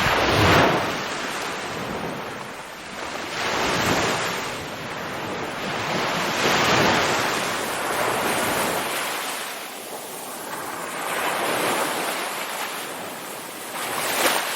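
Ocean surf: waves breaking and washing in one after another, the hiss swelling and fading every three to four seconds.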